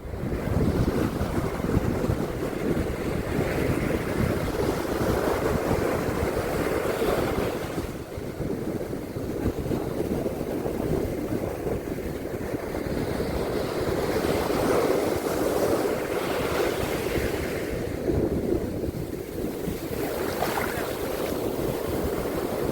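Sea waves washing onto a beach in swells that rise and ease every few seconds, with wind rumbling on the microphone.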